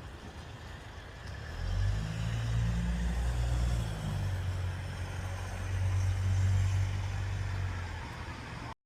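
Low, steady engine rumble that comes in about a second and a half in, holds, and fades near the end.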